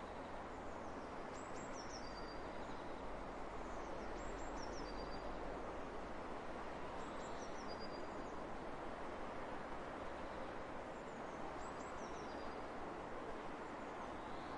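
Steady wind hiss across open country, with a songbird singing a short high phrase of quick falling notes four times, about every three seconds.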